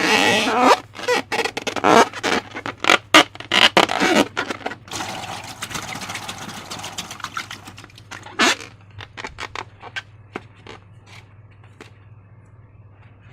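Slime being worked by hand: a quick run of sticky squelches and crackles, then a smoother smearing noise, thinning out to a few faint clicks in the second half.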